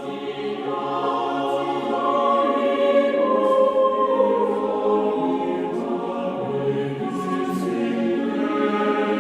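Choir singing the opening theme music: several voices holding sustained chords that shift slowly from note to note.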